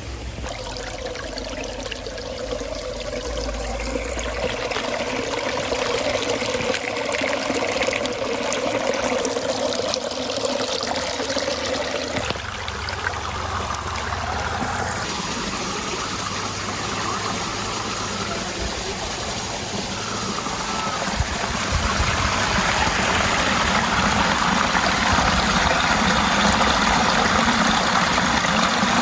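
Water running and trickling over the rocks at the top of a waterfall, a steady rushing that grows louder about two thirds of the way through.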